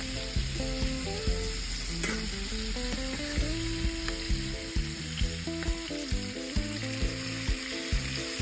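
Tomato paste, olives, capers and onion sizzling in tuna oil in a stainless-steel pan, stirred with a plastic spatula that clicks and scrapes against the pan every second or so. Soft background music with steady notes plays underneath.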